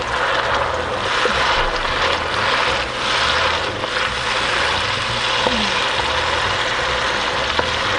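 Fresh blended tomato paste sizzling steadily as it hits hot oil and softened onions in an enamelled cast-iron pot, stirred with a wooden spoon.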